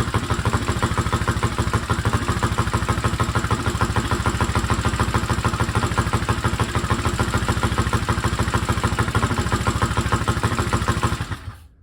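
Old four-stroke dirt bike engine idling steadily, with its rings freed up after a smoky first start. Near the end it is shut off with the stop switch and cuts out abruptly. The owner thinks the valves could do with a little adjusting.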